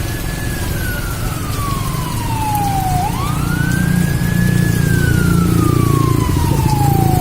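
Emergency siren wailing: each cycle rises quickly, holds briefly, then falls slowly, with a new rise about three seconds in and another at the very end. A steady low rumble runs underneath.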